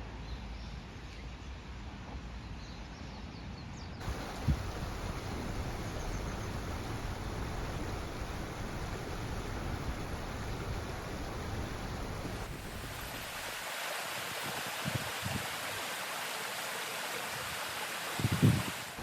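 Small stream running, a steady rush of water that shifts in tone about four seconds in and again about twelve seconds in, with a few soft bumps, the loudest near the end.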